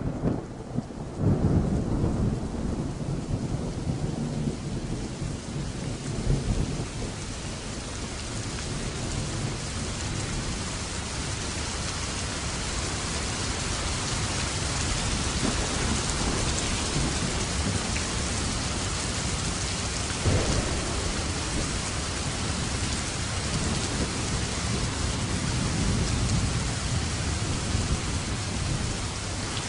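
Rain and thunder: a steady wash of heavy rain, with a low rolling rumble of thunder about a second in and another, weaker one around 20 seconds. The rain hiss grows fuller over the first several seconds.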